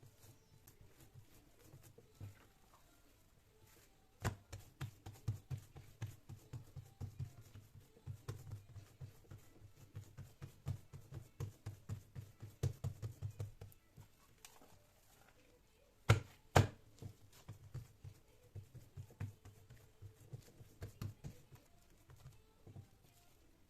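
Rapid runs of soft knocks and taps, several a second, with two sharper clicks about two-thirds of the way through.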